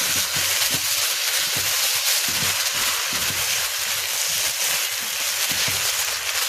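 Rice and vermicelli frying in oil in a pot, a steady sizzle, as the rice is stirred through the vermicelli to toast it.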